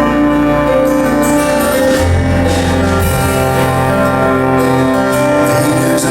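Live band playing an instrumental passage of a contemporary Christian song, with no singing: held chords over a bass line that shifts to a new note about two seconds in and again near the end.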